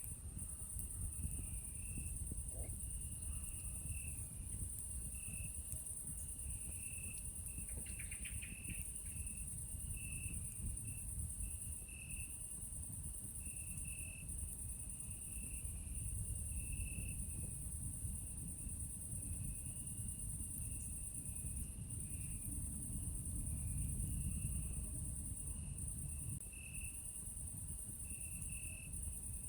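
Night insect chorus: a continuous high, shrill drone with a second insect chirping on and off in a lower register, over a steady low rumble. A short call cuts through about eight seconds in.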